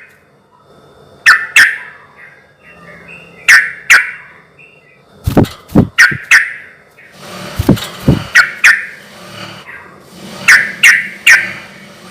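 Yellow-vented bulbul (trucukan) calling loudly, sharp chirping notes in quick groups of two or three, repeated every couple of seconds.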